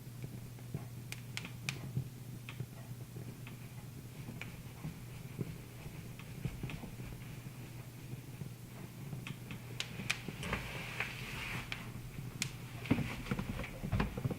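Wood fire crackling in a fireplace: irregular sharp pops and ticks, busier in the second half, over a steady low hum.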